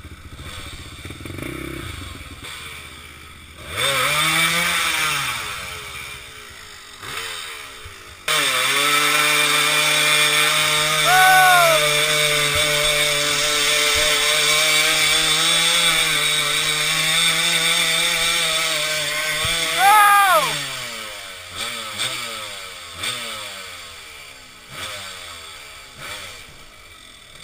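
Dirt bike engine revving: a quick rev up and down, then held at a steady high pitch for about twelve seconds with two short blips of throttle, then dropping away and fading with a few brief revs.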